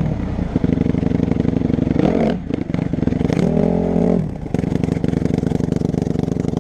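Small off-road vehicle engine revving hard, its pitch dropping and climbing again twice, with brief clattering about two to three seconds in.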